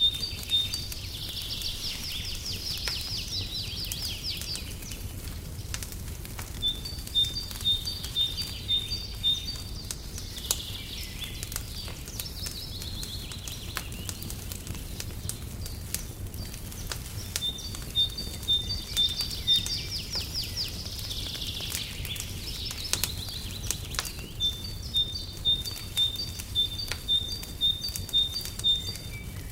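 A songbird repeats a phrase of short, evenly spaced chirps followed by a buzzy trill, about four times. Underneath are the scattered crackles and pops of a wood fire in a fireplace and a steady low rumble.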